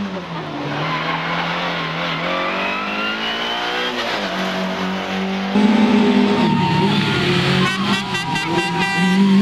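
Rally car engine at high revs, its pitch climbing as the car accelerates and then getting louder about halfway through. Near the end there is a rapid run of sharp pops.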